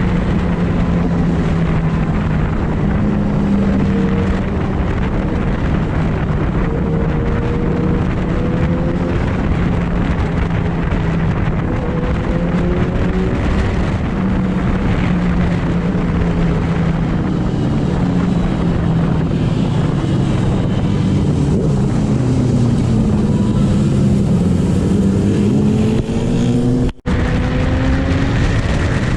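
Sport motorcycle engines running at speed under a heavy rush of wind noise, their pitch rising and falling with throttle and gear changes. The sound cuts out for an instant near the end.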